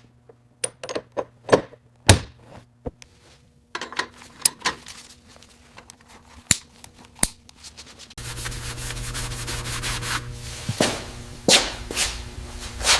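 Workshop restoration sounds: a scatter of sharp taps, clicks and knocks of tools on the bike's parts, joined about eight seconds in by a steady low hum.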